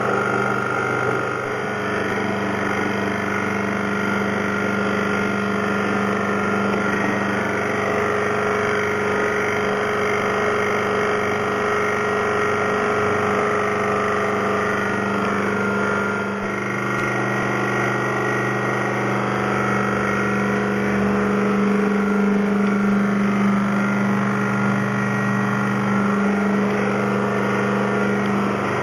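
Steady electric machine hum made of several constant tones. A lower hum drops out and comes back a few times in the second half.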